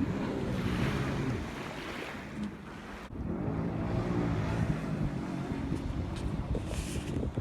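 Jet ski engine running, with wind buffeting the microphone. The engine note fades about a second in, breaks off suddenly about three seconds in, and then comes back.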